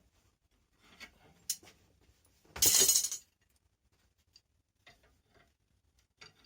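Light metallic clinks and taps of steel being handled, with one loud scraping burst lasting about half a second in the middle.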